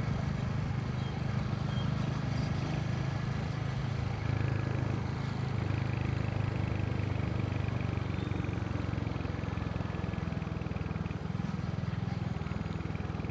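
Royal Enfield motorcycle engine running steadily as the bike rides on at easy city pace after a turn.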